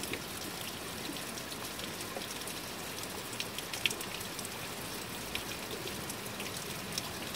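Heavy rain pouring down steadily, an even hiss with scattered sharp taps of individual drops landing close by.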